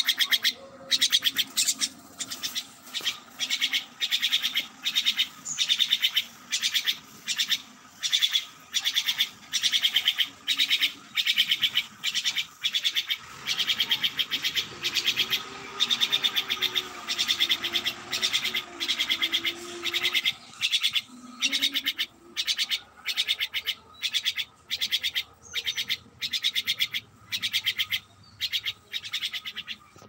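A bird calling over and over: short, rapid trilled notes repeated steadily about twice a second.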